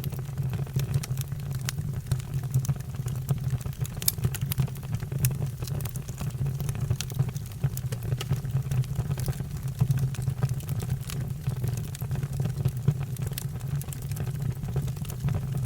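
Fire burning: a steady low rumble with frequent sharp crackles and pops throughout.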